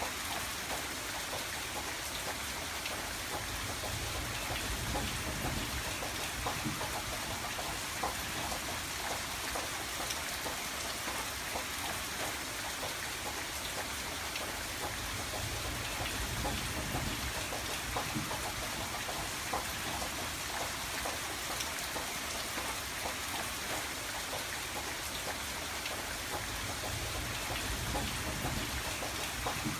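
Steady rain on a window, a constant hiss with many small drop ticks against the glass. A low rumble swells and fades a few times.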